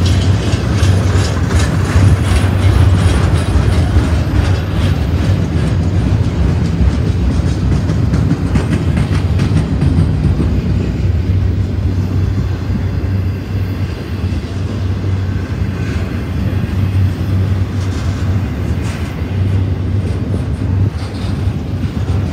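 Double-stack intermodal train of container well cars rolling past at close range: a steady rumble of steel wheels on rail, with rhythmic clicking of the wheel sets over the rail joints, most marked in the first few seconds.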